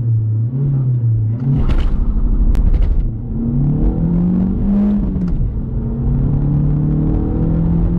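Volkswagen Golf Mk4 petrol engine accelerating hard at full throttle: the revs climb, drop at a gear change about five seconds in, then climb again. A few short clicks sound in the first three seconds.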